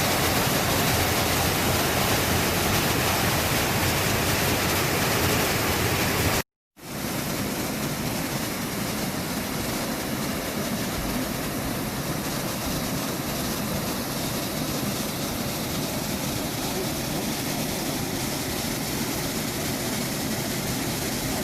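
Waterfall: steady rushing of falling water. It drops out for a moment about six seconds in and returns slightly quieter.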